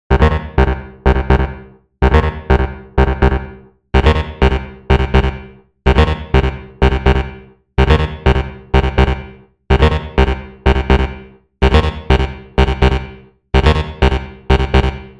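Electronic music intro: a synthesizer keyboard riff of short struck chords that die away, in a phrase of about four hits that repeats roughly every two seconds with a brief gap between, and no drums yet.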